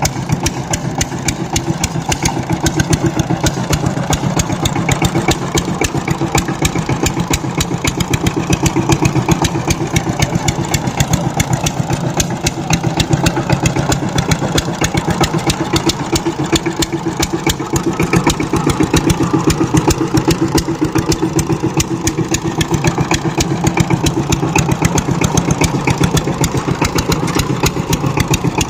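Walk-behind power tiller's single-cylinder diesel engine running steadily with a rapid, even chugging beat.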